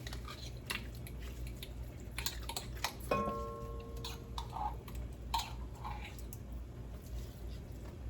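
A spoon scraping and tapping as grape jelly is spooned into a cooking pot: scattered light taps, with one ringing metal clink about three seconds in, over a low steady hum.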